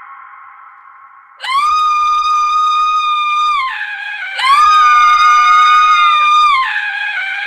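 A woman screaming in long, steady, very high-pitched shrieks: a fading scream at first, then two sustained screams starting about one and a half and four and a half seconds in, and a slightly lower one beginning near the end.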